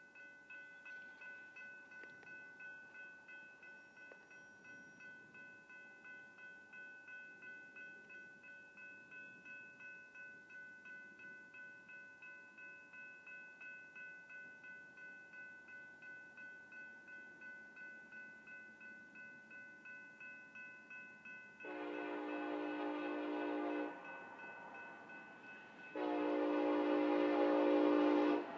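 Grade-crossing warning bell ringing steadily in a quick regular rhythm, then a Union Pacific freight locomotive's horn sounds two long blasts as the train approaches.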